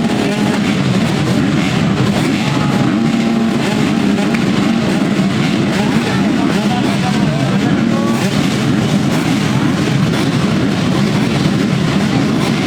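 A pack of motocross motorcycles running together at a race start, a loud, dense mass of engine noise with pitches rising and falling as riders rev and shift.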